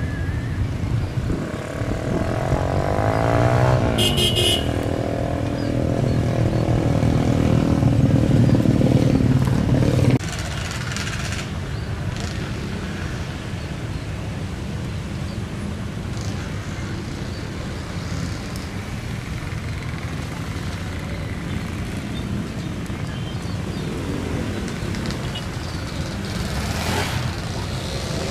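Airliner's engines running loud, with a sweeping, shifting pitch as the aircraft moves past. The noise cuts off abruptly about ten seconds in and gives way to a steady, lower rumble.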